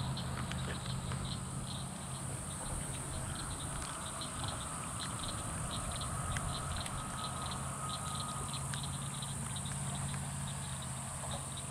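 Rain pattering on a pond with a wildlife chorus: short chirps repeating about three times a second over a steady high hiss.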